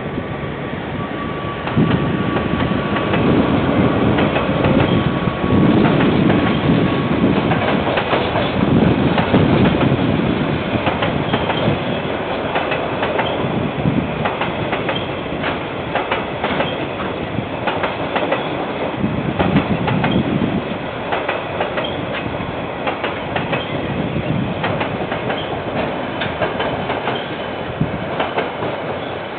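KiwiRail train rolling past, its wheels clicking over the rail joints in a steady rattle that grows louder about two seconds in. A thin steady wheel squeal sounds through the first several seconds.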